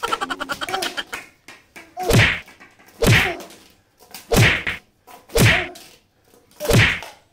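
Five whacks about a second apart as a long pink balloon is swung down onto a person lying on the floor, each a short swish falling into a thud.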